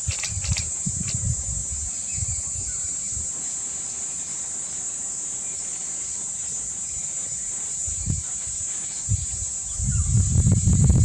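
Steady high-pitched insect chorus, with a low rumble that fades in the middle and grows louder near the end.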